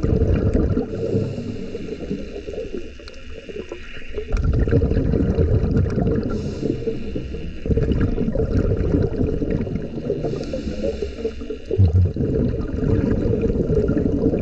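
Gurgling, bubbling water heard underwater, swelling and easing in surges a few seconds long.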